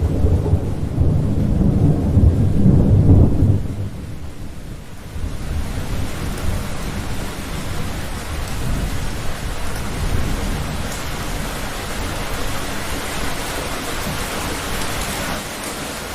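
Thunderstorm: a loud, deep roll of thunder rumbles for the first few seconds and then dies away. Steady heavy rain hisses underneath and comes to the fore afterwards.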